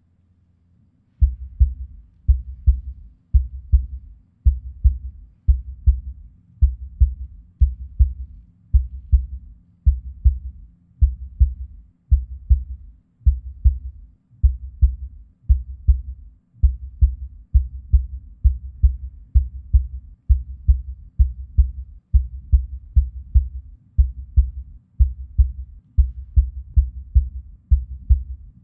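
A deep, low thudding pulse in a steady rhythm of double beats, about one a second, starting about a second in after near silence, like a heartbeat.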